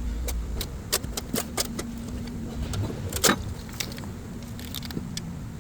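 GMC Tahoe engine running with a steady hum and irregular sharp metallic ticks, the loudest about three seconds in: valve lifter noise.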